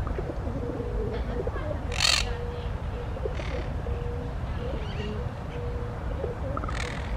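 Birds calling in woodland, over a low rumble. The loudest sound is one short, harsh call about two seconds in.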